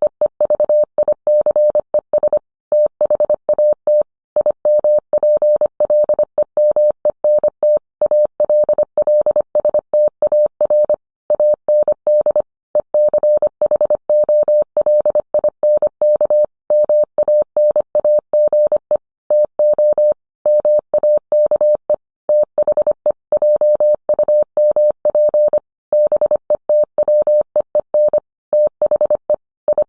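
Morse code: a single steady tone of about 600 Hz keyed on and off in short and long elements, with longer gaps between characters and words.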